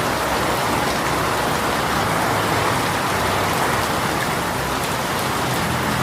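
Steady heavy rain pouring down in a sudden shower, an even hiss of drops on surfaces.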